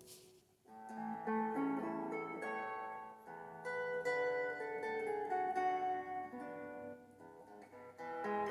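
A melody of clear, plucked-sounding notes, of the kind a Taiwanese garbage truck plays over its loudspeaker to announce its arrival; it starts about half a second in after a brief click.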